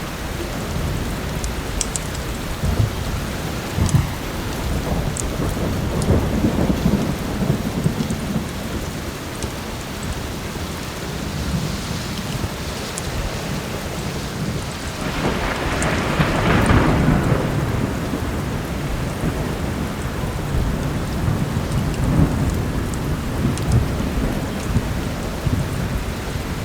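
Heavy rain falling steadily, with rolling thunder rumbling low throughout; the loudest peal builds and rolls away around the middle. A few faint sharp clicks are scattered through it.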